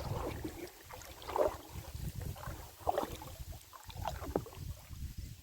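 Oars dipping and pulling an inflatable rowing boat through calm river water, three strokes about a second and a half apart.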